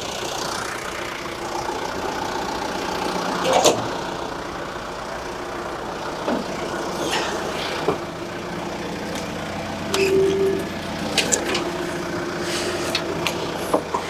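John Deere 310G backhoe's diesel engine running steadily, with scattered metal clanks and knocks from the machine as it works.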